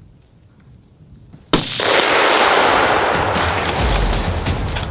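A single sharp rifle shot about a second and a half in, fired at a moose, followed at once by loud music.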